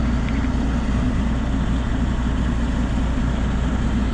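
John Deere diesel engine of a tracked excavator idling steadily.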